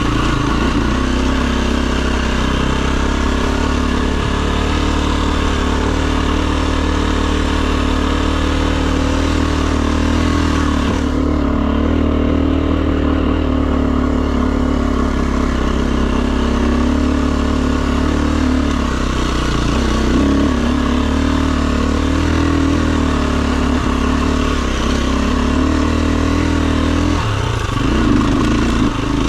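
Enduro dirt bike engine running at a steady speed, its pitch dipping and picking up again a couple of times in the second half.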